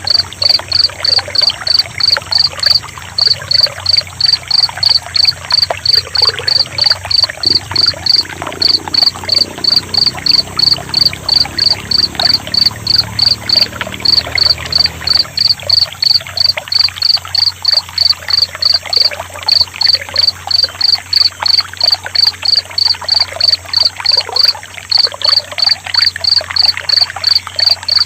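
Crickets chirping loudly in a steady, even rhythm of about two to three chirps a second, with a few brief gaps, over the steady sound of trickling water.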